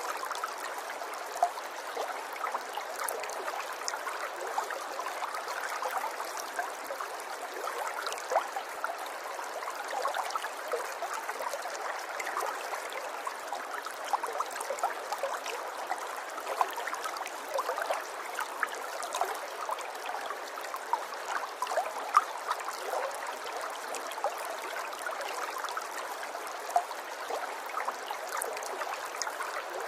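River water flowing steadily, a continuous babble with many small splashes and gurgles throughout.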